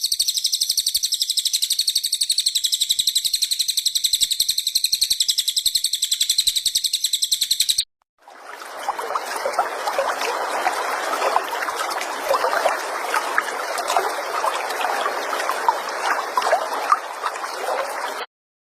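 Recorded songbird calls used for training: a fast, very even high-pitched trill for about eight seconds, then after a short break a dense stretch of many overlapping chirps, lower in pitch, that cuts off suddenly near the end.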